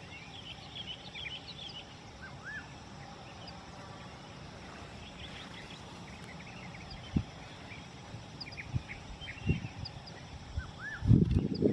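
Several small birds chirping and calling on a mountain slope, short repeated notes throughout. A few low thuds of wind buffeting the microphone come in the second half, then a strong gust of wind noise near the end.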